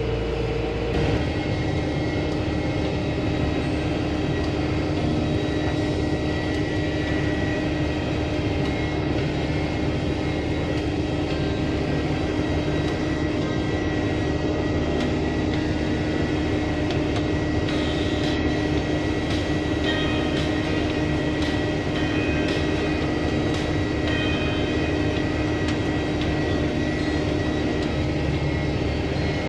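2005 John Deere sprayer's engine running steadily, a constant drone with a steady whine. About a second in, the engine note drops and then holds.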